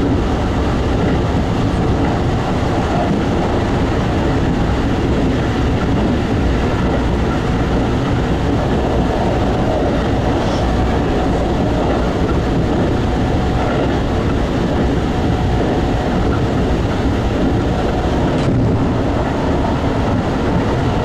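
Keikyu 2100 series electric train running at speed, heard from inside the driver's cab: steady rumble of wheels on rail. Near the end another train passes on the next track.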